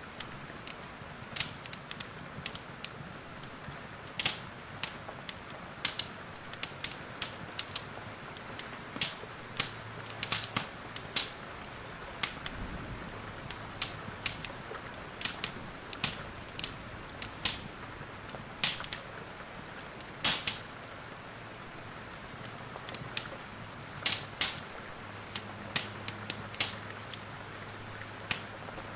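Wood fire in a fireplace crackling, with irregular sharp pops and snaps, over a steady hiss of rain.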